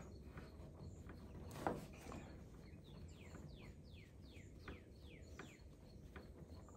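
A bird singing a quick run of about a dozen falling whistled notes over a faint outdoor background, with one soft knock shortly before the song.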